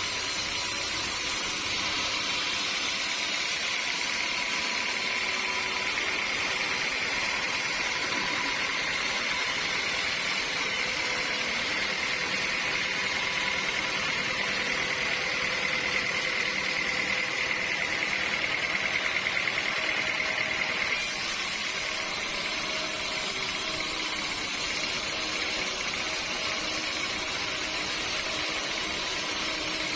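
Sawmill saw running, a steady machine noise with a high whine that grows louder through the middle and breaks off abruptly about 21 seconds in, the machine noise carrying on after.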